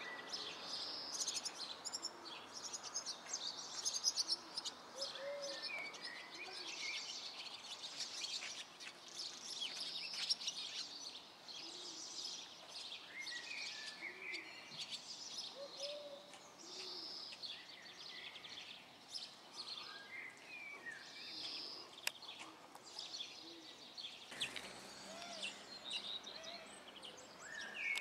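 Small songbirds chirping and singing outdoors: many short, quick calls and trills overlapping, with no pause.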